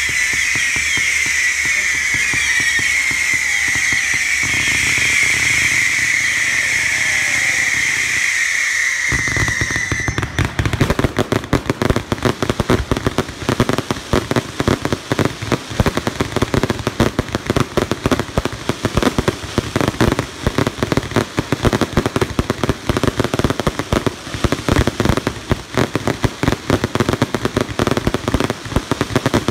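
Fireworks display: for about the first ten seconds a high whistling tone that drifts slowly down in pitch, then a dense, rapid crackling of many small bangs that keeps going.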